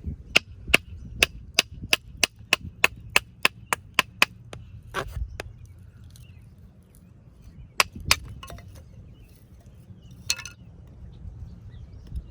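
Wooden sticks being broken up for kindling: a quick, even series of sharp wooden cracks, about three or four a second for some four seconds, then a few single cracks.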